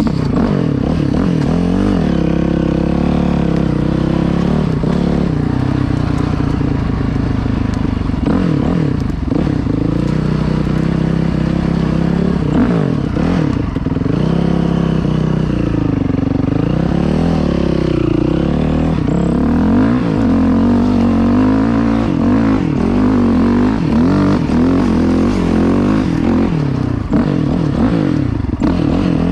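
Dirt bike engine running under load. Its pitch rises and falls over and over as the throttle is opened and closed.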